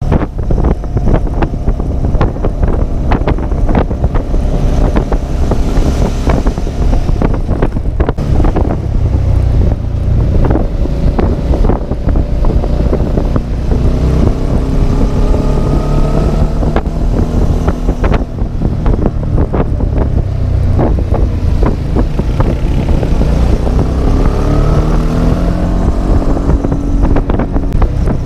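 Yamaha Tracer 700's parallel-twin engine running under way, its pitch climbing twice as it accelerates, once in the middle and again near the end, under heavy wind buffeting on the microphone.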